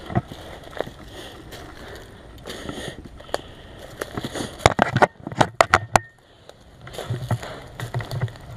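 Footsteps and rustling of clothing and gear as a player moves on foot. About five seconds in there is a quick run of six or seven sharp clicks, then low, evenly spaced thumps of steps near the end.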